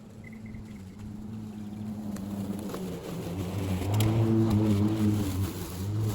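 Cordless battery lawn mower running while cutting grass, a steady motor-and-blade hum that grows louder over the first few seconds and is loudest about four to five seconds in.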